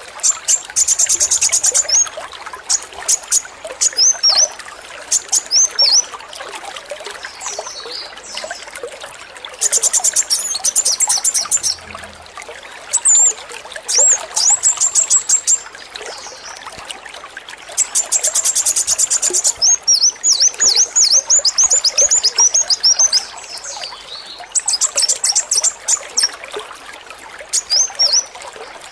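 Male kolibri wulung (a sunbird) singing high rapid rattling trills, the machine-gun-like 'AK-47' song, in four bursts between runs of quick downslurred chirps, over a steady trickle of water.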